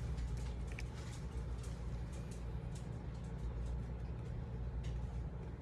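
Faint, irregular scratching of a glitter pen colouring on card stock, in short strokes, over a steady low hum.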